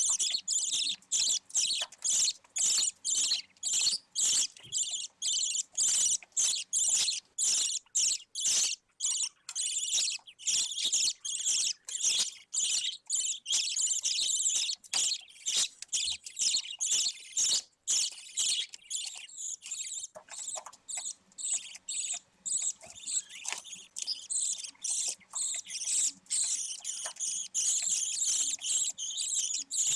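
Budgerigar chicks chirping: a continuous run of short, high-pitched calls with brief gaps between them.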